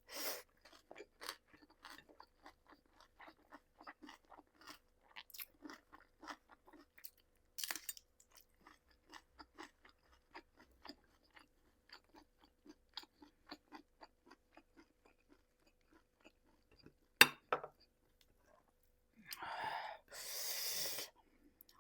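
Close-miked mouth chewing of curry and rice, a steady run of small wet smacking clicks and soft crunches at about two to three a second. A single sharp click comes about seventeen seconds in, and a loud breathy noise about a second long comes near the end.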